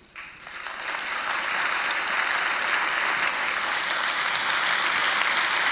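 Audience applauding, swelling up within the first second and then steady.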